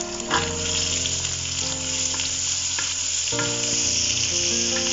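Oil sizzling steadily in a wok as sliced onions, red chillies, tomatoes and chilli powder sauté, stirred with a spatula.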